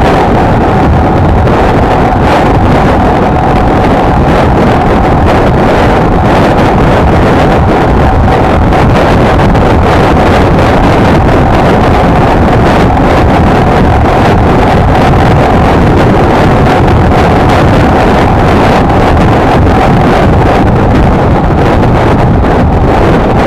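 Honda XLR125R's single-cylinder four-stroke engine running steadily while the bike is ridden, under heavy wind buffeting on the microphone.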